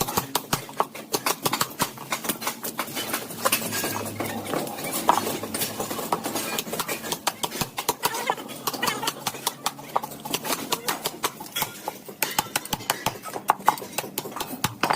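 Rapid, irregular clicking and knocking, several strikes a second, with a few louder knocks.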